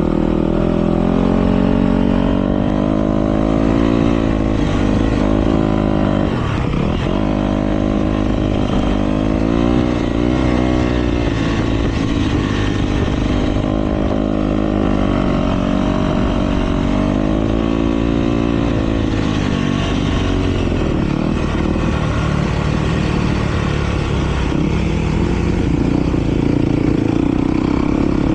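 Several motocross bikes racing, their engines revving up and dropping back again and again, with the pitches of different bikes overlapping.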